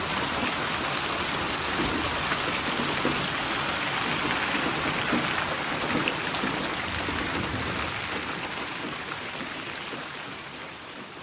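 Steady rain falling, an even hiss with the patter of individual drops, slowly fading out over the last few seconds.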